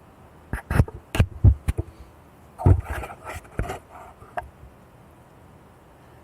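Camera handling noise: a cluster of about a dozen irregular knocks and clicks over the first four seconds, some in quick pairs, then only quiet room tone.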